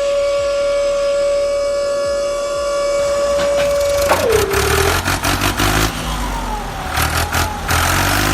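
A small high-speed electric motor whines at a steady high pitch, then about four seconds in drops in pitch and gives way to a rough, rattling, grinding noise with a low rumble.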